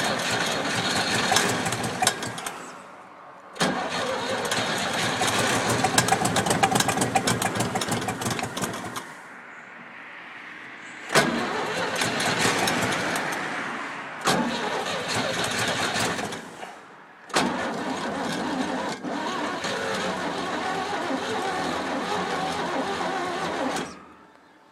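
Oliver Cletrac AG-6 crawler's engine being cranked on the starter in five separate attempts, each run of rapid strokes cut off abruptly, on a cold first start after 15 years of standing. The engine is close to firing but does not keep running.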